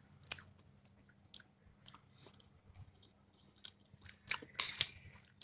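A person chewing a chunk of fresh pineapple: scattered wet mouth clicks and smacks, louder for a moment about four seconds in.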